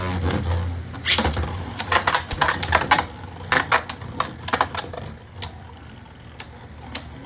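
Two Beyblade spinning tops battling in a plastic stadium: irregular sharp clacks as they collide, over a low whir in the first second or so. The clacks grow sparse in the last two seconds.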